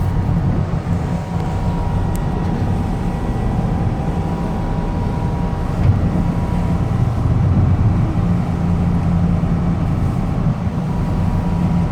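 Boat engine running steadily, a constant low hum under wind and water noise.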